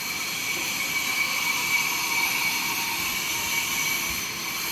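Sawmill saw machine running steadily, a high whine over a broad hiss.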